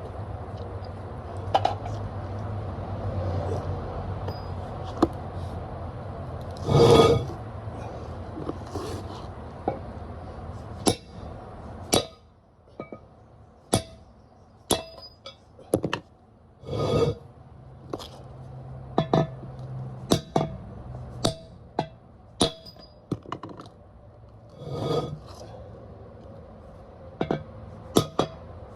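Hammer striking steel wheel studs to drive them out of a truck's brake drum and hub assembly: irregular metallic clinks and knocks, with a few heavier, ringing blows.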